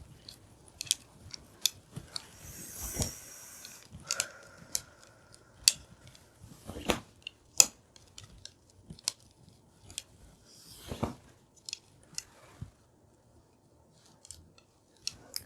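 Irregular sharp clicks and taps of small hard objects being handled, with a couple of brief rustles.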